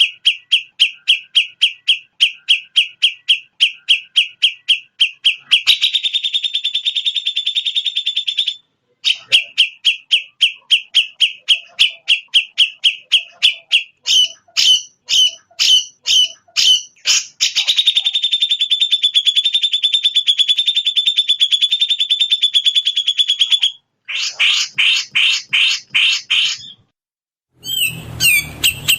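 Recorded songbird calls played back as a training ('masteran') track: rapid repeated chirps, about four or five a second, alternating with long fast trills, with abrupt cuts between the looped sections.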